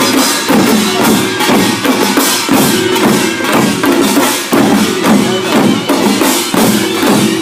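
Korean pungmul percussion ensemble playing a fast, driving rhythm: kkwaenggwari gongs clanging over janggu and buk drums, with steady repeated strokes.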